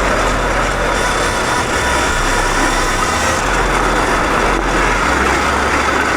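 Electric dirt bike ridden at full throttle: a steady high motor whine over heavy wind rumble on the microphone.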